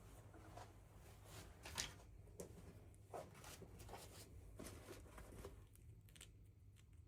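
Faint scattered clicks and short rustles of hands handling toy packaging, over a low steady hum.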